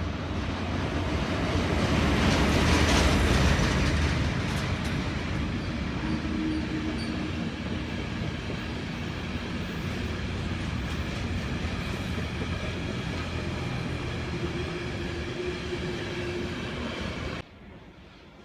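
Swiss container freight train, hauled by an SBB Re 4/4 II-type electric locomotive, passing close by. It is loudest a few seconds in as the locomotive goes past, then the wagons roll by with a steady rumble of wheels on rail. Near the end the sound cuts suddenly to a much quieter background.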